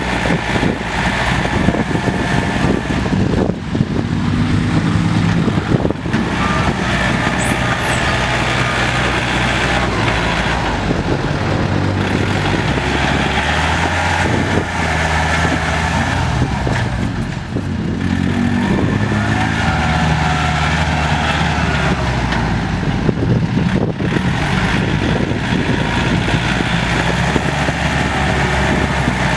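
Farm tractor diesel engines running under load while pushing soil, their pitch rising and falling several times as the throttle and load change, with a few knocks and clanks.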